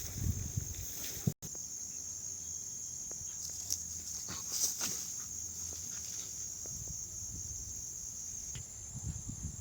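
Insects, crickets or similar, chirring in a steady high drone, with a low rumble and a few faint clicks underneath. The sound cuts out for an instant about a second in.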